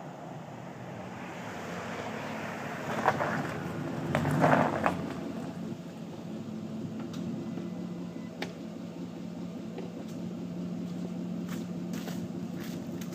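Ford F-150 exhaust with a Flowmaster aftermarket system, the engine running steadily with a low drone, and a brief louder rush about three to five seconds in.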